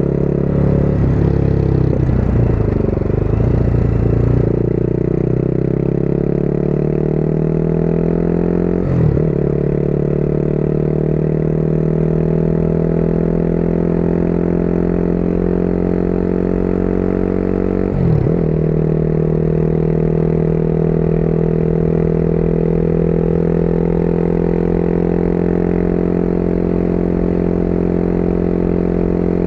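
Motorcycle engine accelerating through the gears: the engine note climbs steadily, drops with quick upshifts about nine and eighteen seconds in, then settles at a steady cruise.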